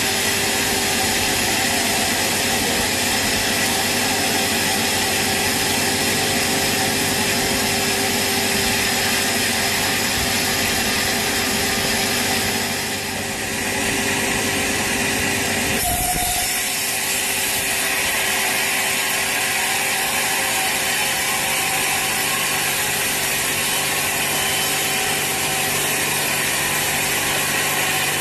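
Sawmill saw running and cutting through teak wood, a steady loud mechanical whir, with a short dip about halfway and a sudden change in the sound soon after.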